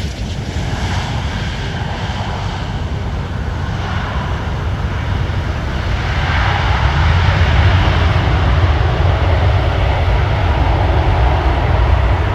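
Airliner engines running loud and steady with a deep rumble, growing louder about six seconds in, as an aircraft passes close by.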